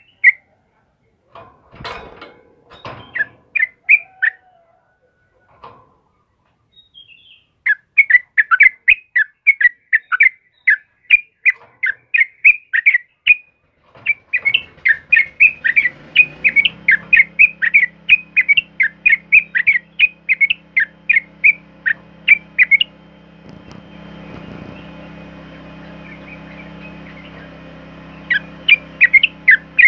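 Yellow-vented bulbul (trucukan) singing: quick runs of short, bright chirping notes, several a second, broken by a few pauses. A low steady hum sits underneath from about halfway on.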